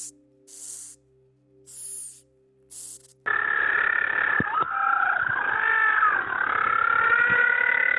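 Animal sounds in two recordings: short hisses about once a second, then, from about three seconds in, a louder run of several overlapping high, wavering whistle-like calls held for seconds at a time.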